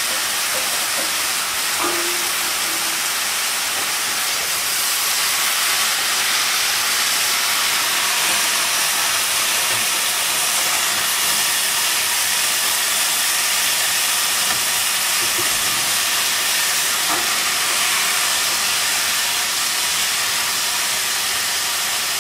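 Food sizzling in a hot pan, a steady hiss with a few faint ticks.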